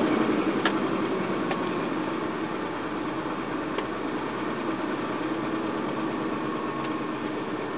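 Ford Expedition's V8 engine running steadily, heard from inside the cab, while an OBD2 scan tool runs its code check and controls the idle. The truck has an exhaust leak from rusted-out bolts.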